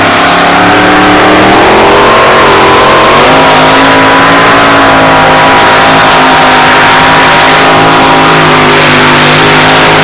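Pulling truck's 640-cubic-inch Keith Black Hemi engine running at high revs under full load as it pulls the sled. The pitch climbs slightly over the first few seconds, then holds steady and very loud.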